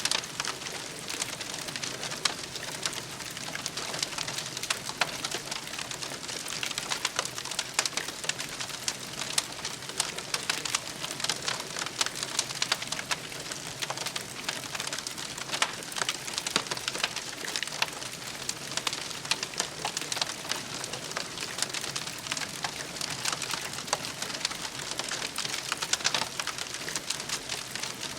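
Campfire crackling: a dense, steady run of small snaps and pops over a soft hiss.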